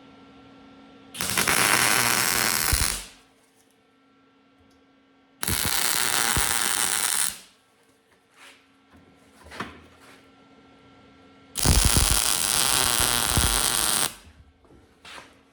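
Stick welder arc burning tack welds on steel caster mounts: three bursts of crackling hiss, each about two seconds long, with a low steady hum in the pauses between them.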